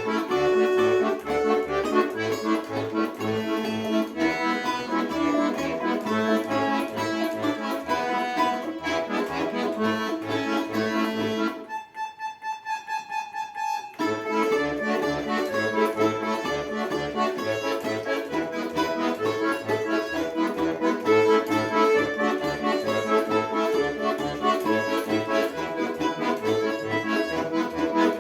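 Accordion playing a tune over a regular bass-and-chord accompaniment from the left hand. About halfway through, the bass stops for a couple of seconds and only the high melody notes sound, then the full accompaniment resumes.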